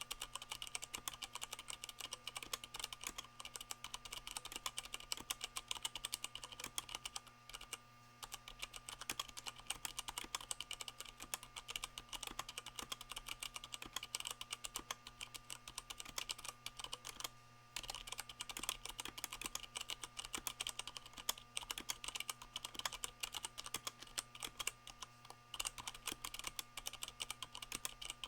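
Continuous typing on a Leopold FC660M mechanical keyboard with Cherry MX Brown switches, their bottom-out softened by O-ring dampeners, the board resting on a microfiber towel. Rapid keystroke clicks, with brief pauses about eight seconds in and again near seventeen seconds.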